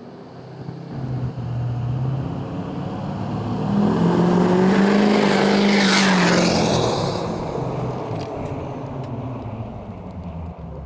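GMC Duramax 2500's V8 turbo-diesel, running through a 5-inch straight-pipe exhaust with the muffler deleted, driving past. It grows louder to a peak about five seconds in and fades away as its engine note drops in pitch.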